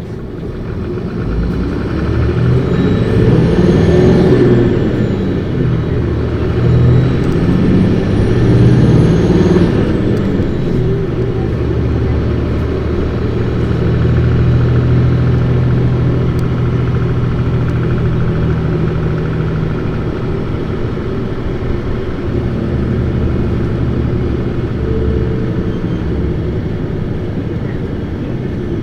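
The Isuzu Erga city bus's turbo-diesel straight-six engine accelerating hard. Its note climbs twice, peaking about four and nine seconds in, with a thin high whine rising over each climb, then settles into a steadier run.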